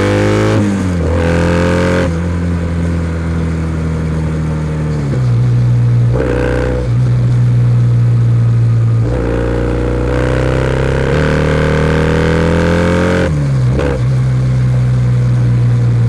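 Kawasaki W650's air-cooled parallel-twin running through a POSH W1 full exhaust under way. It pulls with a slowly rising pitch, broken about four times by a sudden drop in pitch as the rider changes up a gear.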